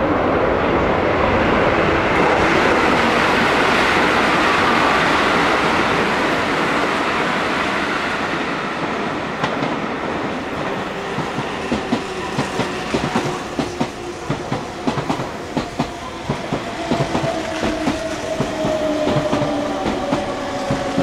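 Meitetsu electric train running through the station with a loud rolling rumble. Its wheels then clack irregularly over rail joints and points, and its motor whine slowly falls in pitch as the train slows.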